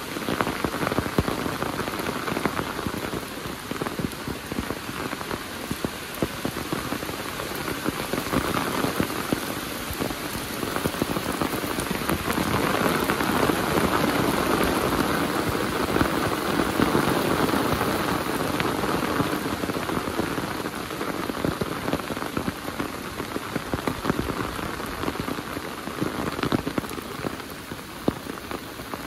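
Heavy rain falling: a dense, steady hiss full of separate drop impacts, growing louder for several seconds in the middle before easing again.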